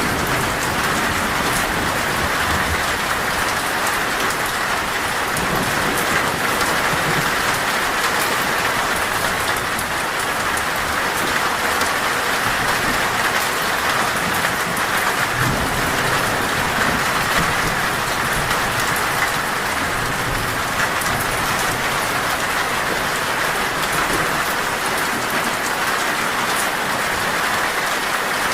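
Heavy, steady rain drumming on a metal roof, with a few faint low rumbles of thunder.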